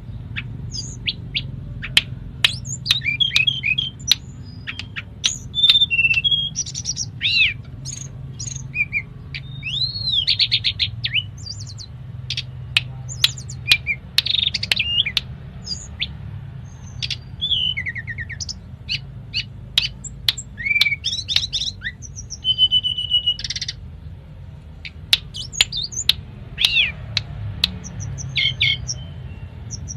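Tledekan gunung songbird singing continuously in a rapid, varied run of chirps, whistled notes and sharp clicks, with mimicked fill phrases of other birds' songs. A steady low hum lies underneath.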